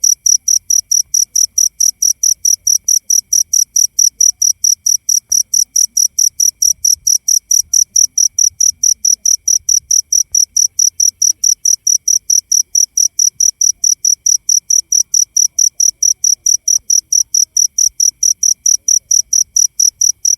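An insect chirping steadily: short, high-pitched chirps at an even rate of about four to five a second, without a break.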